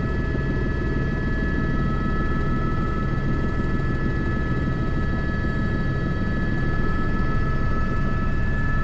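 Airbus H125 (AS350 B3) helicopter's turbine and rotor running steadily, heard from the cockpit, with a thin steady whine over the rotor noise.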